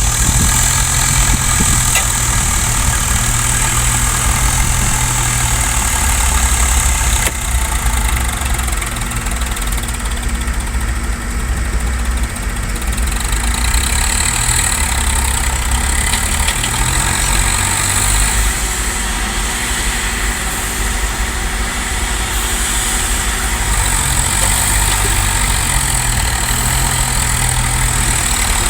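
Tractor engine running steadily, its sound concentrated in a deep low register.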